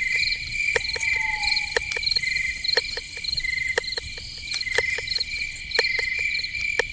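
Night forest ambience of crickets chirping in steady, fast pulsed trills, with scattered sharp clicks throughout. A single short, slightly falling whistled call sounds about a second in.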